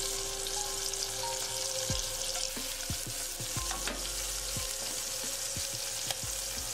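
Shrimp, onion and garlic frying in hot oil in a pot: a steady sizzle broken by scattered crackling pops.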